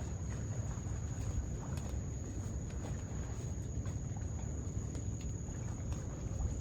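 Insects trilling in one steady, unbroken high note, over a low rumble.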